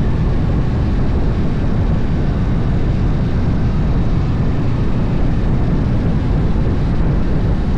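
Harley-Davidson motorcycle riding at speed, its engine running under a steady rush of wind and road noise.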